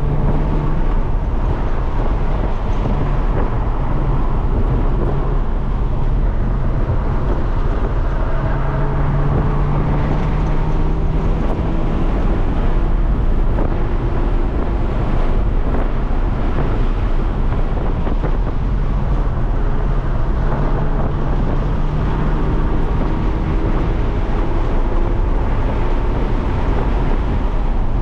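Hyundai Elantra N's 2.0-litre turbocharged four-cylinder engine running hard, heard from inside the cabin. Its pitch climbs with the revs several times and drops at each gear change, over steady road noise.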